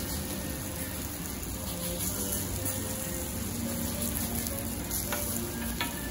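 Okonomiyaki batter sizzling on a hot teppan griddle while a wooden spoon spreads and scrapes it, with a few light taps near the end.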